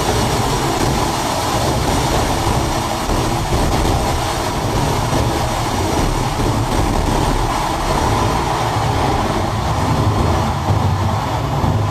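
Loud steady rushing noise and deep rumble of airflow and jet engines heard from inside a Boeing 737's main wheel well as the aircraft climbs after takeoff.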